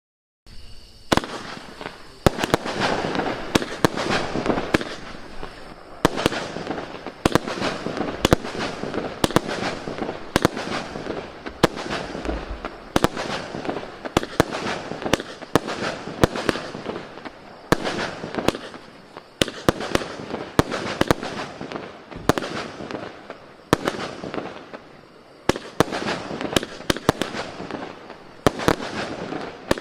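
A 40-shot, 0.8-inch consumer cake firework firing, starting about half a second in. It gives a long rapid series of sharp reports, about one to two a second, over a continuous rushing noise.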